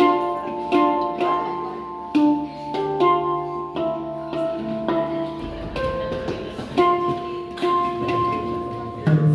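Handpan played with the fingers: a slow melody of struck notes, one about every three-quarters of a second, each ringing on and overlapping the next.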